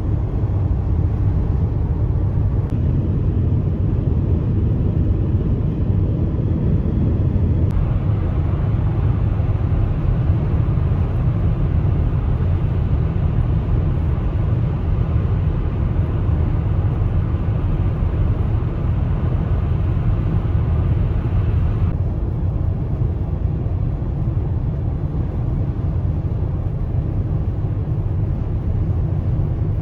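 Steady low rumble of a car driving: road and engine noise. A higher hiss comes in abruptly about eight seconds in and cuts off about twenty-two seconds in.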